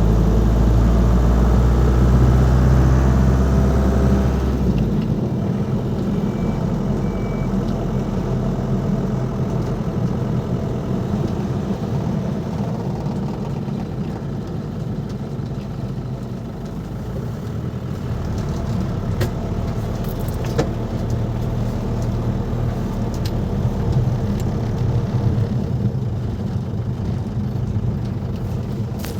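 Ford Transit Mk5's 2.5 litre diesel engine running, working harder for the first four or five seconds, then easing to a lighter, steady running.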